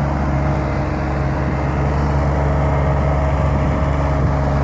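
Kubota compact tractor's diesel engine running steadily under load, working the garden.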